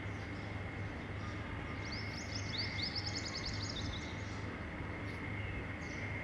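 A bird singing a fast trill of quick, high chirps about two seconds in, lasting about two seconds, over a steady background hum.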